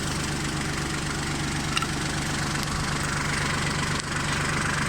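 Kubota tractor's diesel engine idling steadily, with one small click about two seconds in.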